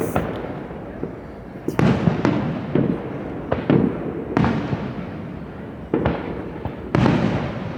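Aerial fireworks bursting: about six booms at uneven intervals, roughly one a second, each trailing off in a rumble.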